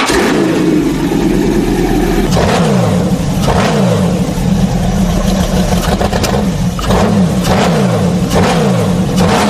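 Superbike engine revved again and again through its exhaust, about one throttle blip a second, each rev dropping back in pitch.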